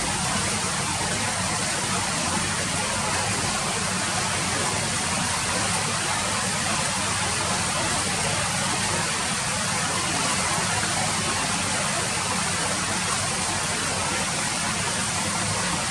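Steady rain falling, an even hiss with no single drops or breaks standing out.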